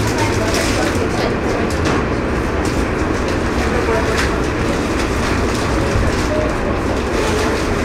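A JR West 103 series electric train running, heard from inside the front car: a steady rumble of wheels on rail with scattered clicks from the rail joints.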